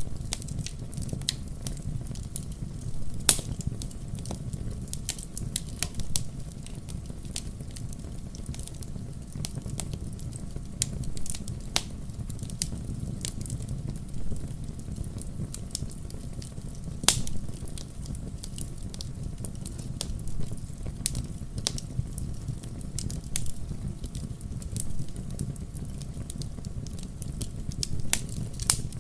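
Wood fire burning in a fireplace: a steady low rumble of the flames with irregular crackles and sharp pops of the burning logs, a few pops louder than the rest.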